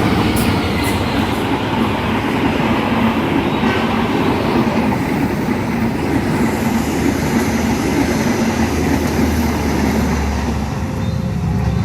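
A train passing at speed close by: a loud, steady rush of wheels on rail, with a few sharp clicks near the start.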